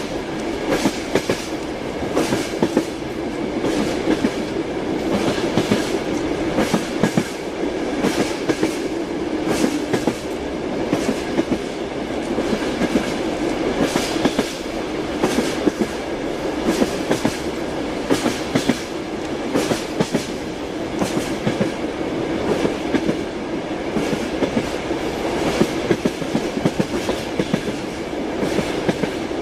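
Train wheels clattering over rail joints: a steady rolling rumble broken by frequent sharp clacks.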